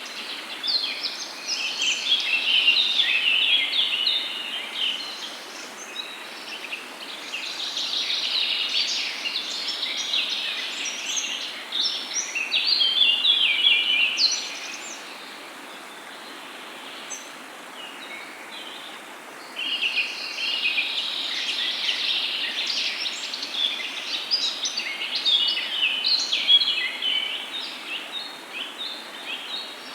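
Several songbirds singing and chirping at once, a dense overlapping chorus that dies down for a few seconds around the middle and then picks up again, over a steady background hiss.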